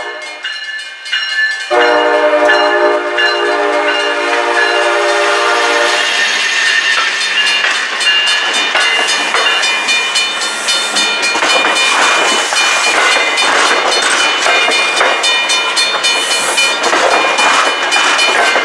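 A commuter train's horn sounds one long chord blast of about four seconds, beginning near two seconds in. The train then passes close by with a dense rush of wheel and rail noise from its coaches.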